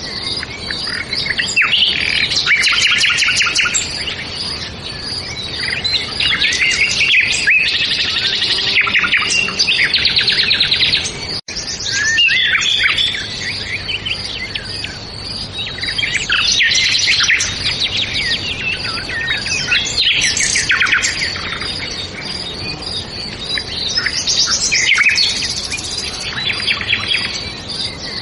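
Songbirds singing: dense phrases of rapid chirps and trills that come in bursts every few seconds, with a split-second dropout about eleven seconds in.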